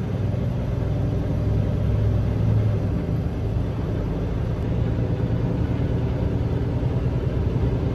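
Semi-truck diesel engine running with a steady low drone while the truck creeps along in slow traffic.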